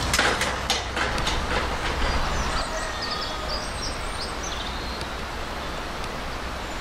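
Train running on the line, its wheels clicking over the rail joints several times in the first second and a half over a low rumble. After that it is quieter, with small birds chirping.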